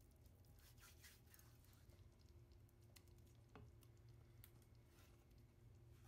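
Near silence: a faint steady low hum, with a few soft scratchy rustles about a second in and scattered faint clicks.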